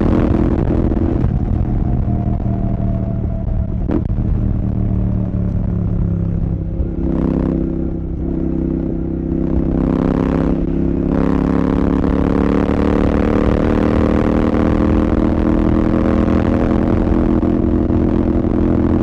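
Royal Enfield Continental GT 650's parallel-twin engine through a Red Rooster aftermarket exhaust, running under way: the note eases down a little in the first few seconds, then climbs steadily from about midway as the bike accelerates. Two brief rushes of noise come around the middle.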